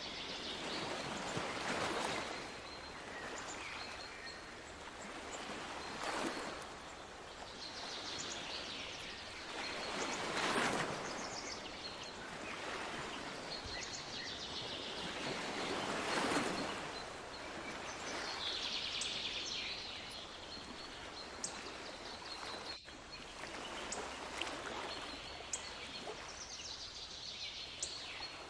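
Sea waves washing ashore, the surf swelling every four to six seconds, with small birds chirping and trilling over it.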